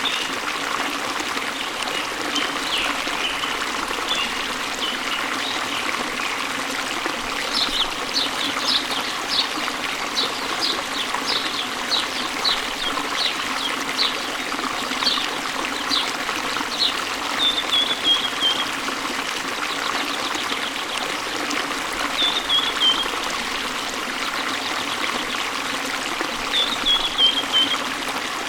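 Waterfall and stream water flowing with a steady rush, with birds chirping over it. A run of short high chirps repeats a little under twice a second through the middle, and a few brief falling trills come later, near the end among them.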